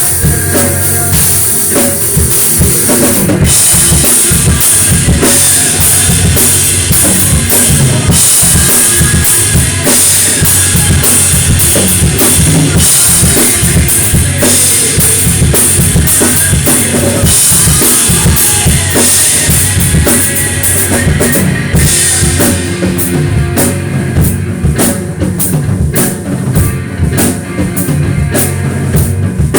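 Mapex Saturn drum kit played hard in a rock song, with heavy bass drum and snare strokes, in a clipped, distorted recording. From about two-thirds of the way in, the beat opens into more separate, evenly spaced hits.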